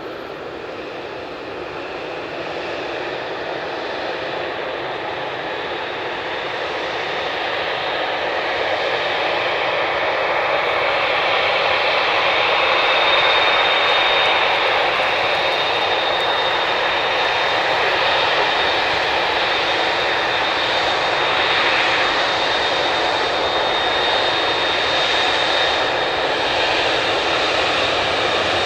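Jet engines of a Boeing 787-9 airliner, growing louder over about twelve seconds and then holding steady, with a high steady whine over the rushing noise.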